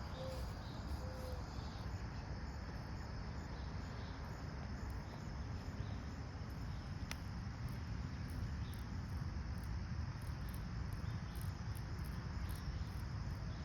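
Steady outdoor insect chorus: a continuous high drone of calling insects over a low rumble.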